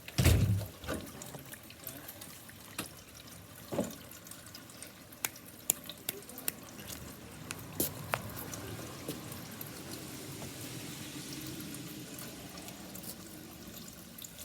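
Rain dripping and pattering, with scattered sharp drops and a soft wash of water in the background. A loud low thump comes right at the start.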